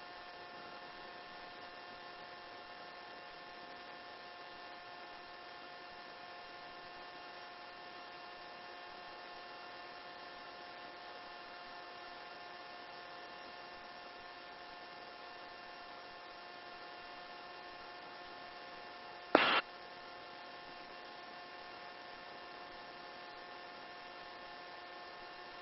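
Faint, steady electrical hum and hiss of a helicopter's headset intercom line, with several steady whining tones running through it. A short loud burst breaks in once, about two-thirds of the way through.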